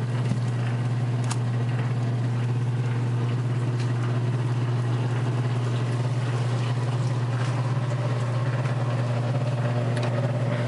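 Maytag wringer washer's electric motor running steadily with a low hum while the wringer turns, with a few light clicks.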